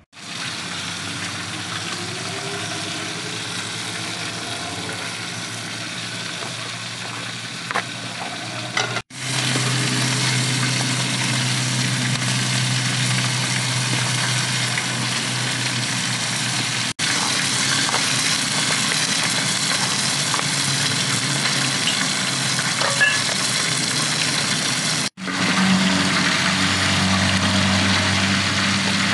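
Oil sizzling in a large steel pan as burger patties, potato fries and tomatoes fry, with a steady low hum underneath. The sound drops out for an instant three times, at edits.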